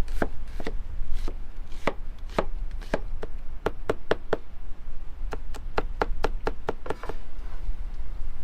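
Knife chopping on a cutting board: spaced strokes, then a quick run at about five a second that stops about seven seconds in.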